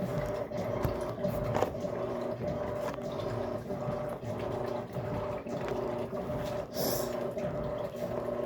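Electrolux LAC13 13 kg washing machine running mid-wash with a load of towels: a steady hum with water sloshing and irregular knocks, and a brief hiss near the end.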